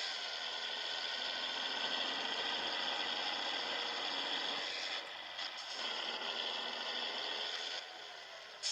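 Scania 111 truck's diesel engine running steadily while the truck is under way. The sound dips briefly about five seconds in and gets somewhat quieter near the end.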